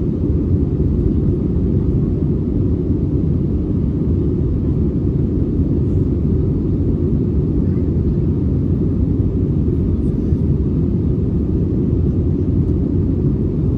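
Airbus A320neo jet engines, a steady low rumble.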